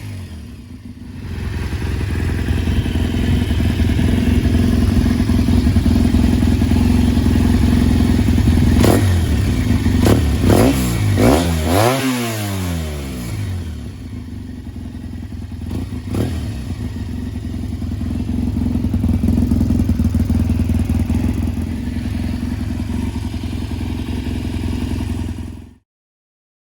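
1992 Yamaha XTZ750 Super Ténéré's parallel-twin engine running through an Arrow Dakar replica full exhaust with the dB killer fitted. It runs steadily, is blipped up and down several times around the middle, settles, swells once more, and cuts off suddenly near the end.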